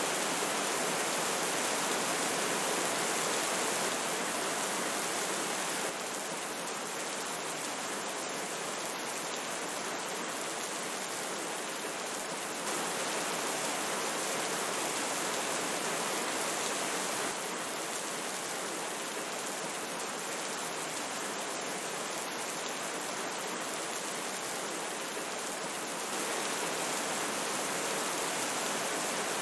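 Steady rush of a river with rain falling, an even hiss with no pauses. The overall level steps abruptly up or down a few times.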